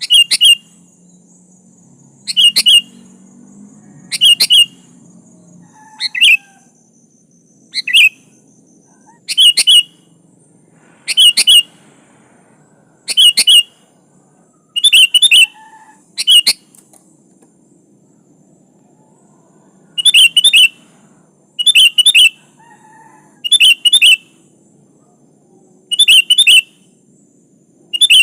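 Sooty-headed bulbul calling: short, loud, bright call phrases repeated about every one and a half to two seconds, with a break of about three seconds past the middle.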